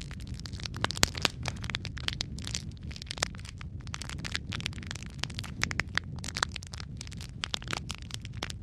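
Wood fire crackling in a fireplace: a steady low rumble of flame with many irregular sharp pops and snaps.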